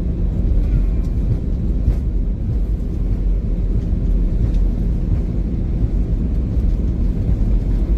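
Airliner cabin noise: a steady low rumble inside the passenger cabin, with the plane on the ground just after landing.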